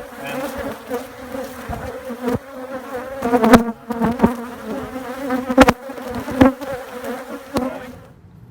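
A swarm of honeybees buzzing at a hive entrance: a steady hum that swells as bees pass close, with sharp ticks now and then. Bees are fanning at the entrance, which the beekeeper reads as the sign that the queen is inside. The buzzing cuts off shortly before the end.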